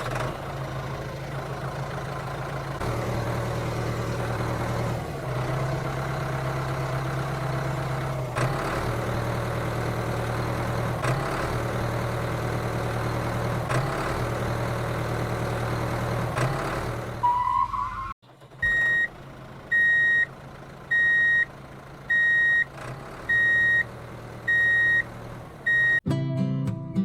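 A tractor-type engine running steadily with a low hum, rising briefly in pitch before it cuts off. Then a reversing beeper sounds about seven high beeps, roughly one a second, and guitar music starts at the very end.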